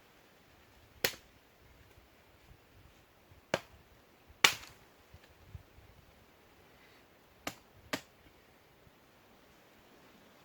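Five sharp, short snaps at irregular intervals over a faint steady hiss. The loudest comes about halfway through, and two fall close together near the end.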